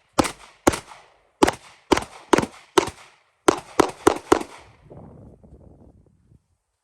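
Glock 19 9mm pistol firing a rapid string of about ten shots, in quick uneven pairs and runs, stopping about four and a half seconds in. Faint low rustling follows.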